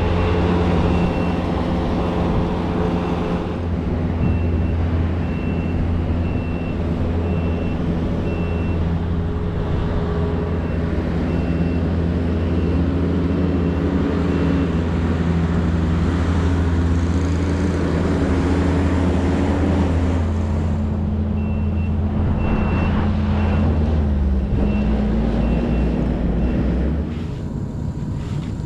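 A vehicle engine running steadily, its pitch shifting a little as it works, with a backup alarm beeping steadily in two spells. The engine drops off near the end.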